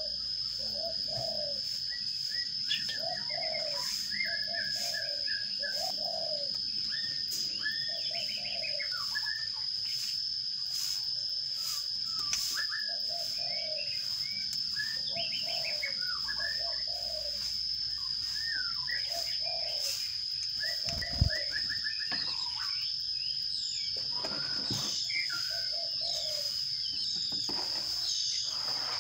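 Sparrows chirping in quick, scattered notes, with a dove cooing repeatedly in the background and a steady high-pitched whine underneath. A single sharp knock comes about two-thirds of the way through.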